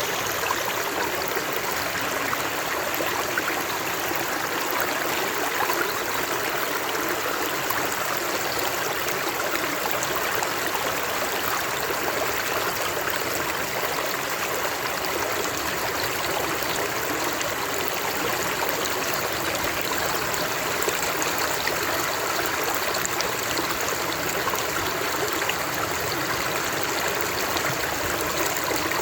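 Running water of a stream, a steady rushing and splashing with fine trickling.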